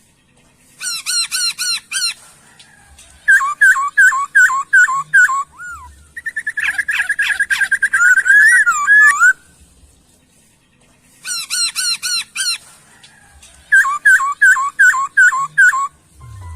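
Cage songbird giving its 'kletekan' call: phrases of quick, repeated rising-and-falling whistled notes, with a longer, faster trill in the middle, separated by short pauses.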